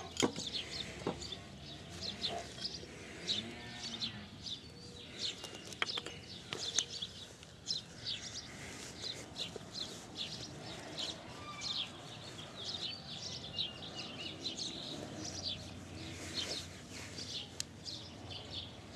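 Small birds chirping, many short high chirps scattered over and over, with a couple of sharp clicks near the middle.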